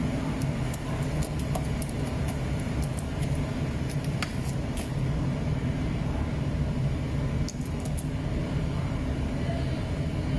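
Microwave tunnel drying machine for shrimp running: a steady low mechanical hum, with scattered sharp clicks and ticks over it.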